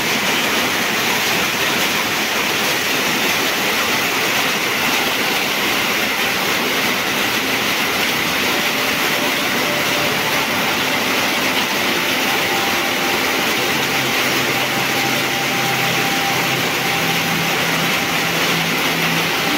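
Heavy rain falling steadily on corrugated metal roofing, an even, unbroken hiss.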